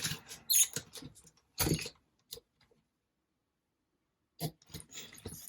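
Handling noises of RC car parts and tools on a workbench: a few short knocks and clicks, then a pause of about two seconds, and more clicks near the end.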